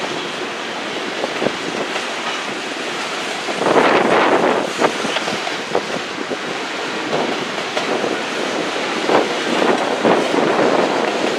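Freight train cars rolling past: a steady rumble of steel wheels on rail with scattered clicks as wheels cross rail joints. It swells louder for a stretch about four seconds in.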